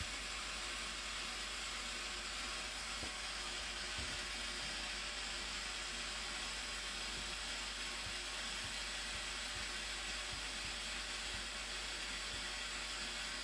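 Steady rushing roar of the Blue Nile Falls, an even, unbroken hiss of falling water.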